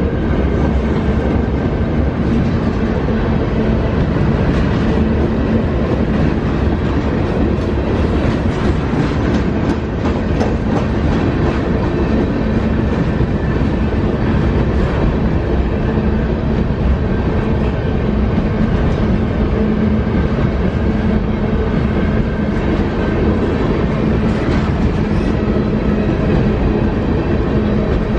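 Covered hopper cars of a CN freight train rolling past: a steady, loud rumble of steel wheels on rail with repeated clicking over rail joints.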